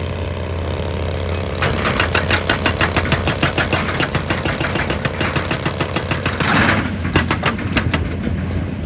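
Excavator engine running steadily while a hydraulic breaker hammers rock in rapid, even blows, about eight a second. The hammering starts a couple of seconds in and stops near the end, with a brief rush of noise about two-thirds of the way through.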